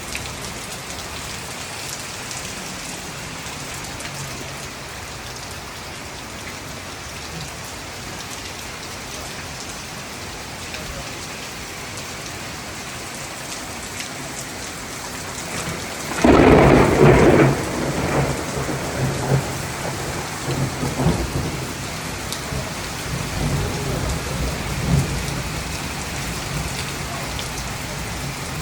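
Steady rain falling throughout. A little past halfway a sudden loud thunderclap breaks, followed by rolling rumbles of thunder that fade over about ten seconds.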